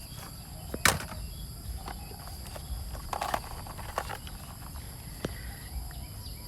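Scattered knocks and rustles of handling and movement outdoors, the loudest a sharp knock about a second in, over a faint steady high hum.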